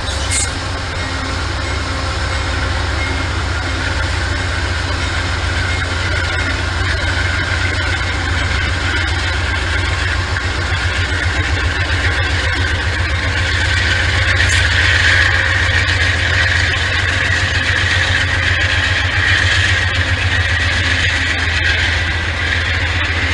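Diesel locomotive engine running with a steady low rumble, joined by a high steady whine that grows louder about two-thirds of the way through.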